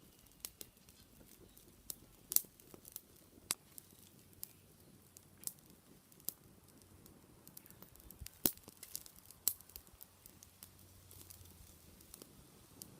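Wood fire crackling, with irregular sharp pops and snaps, two of them louder, about two seconds in and about eight seconds in.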